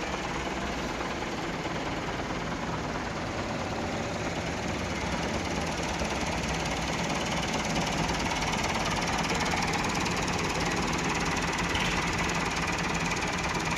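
Massey Ferguson 390 tractor's four-cylinder diesel engine running steadily, getting slightly louder about seven seconds in.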